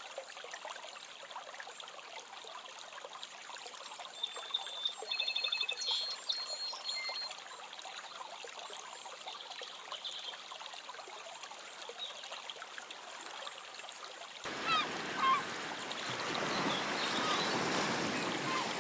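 Steady trickling water with a few short, high chirping calls about four to seven seconds in. Near the end it changes abruptly to louder rushing water.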